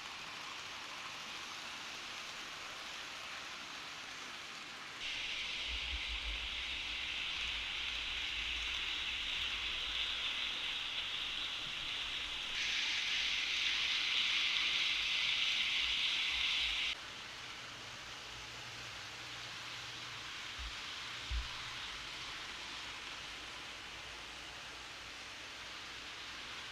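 Steady rain-like hiss. A louder, higher-pitched hiss starts abruptly about five seconds in, gets louder around twelve seconds, and cuts off suddenly about seventeen seconds in.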